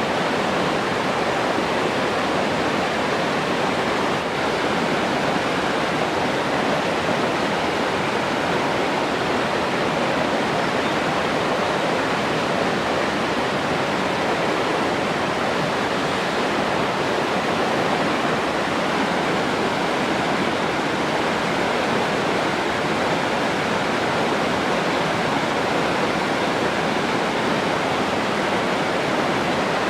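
Steady rushing water, an even unbroken hiss that does not change.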